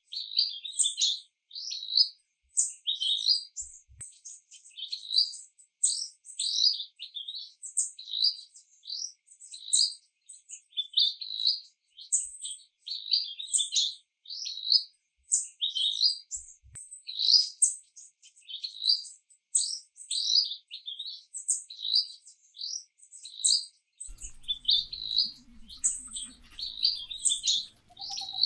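A small bird singing short, high chirping phrases over and over, about one a second.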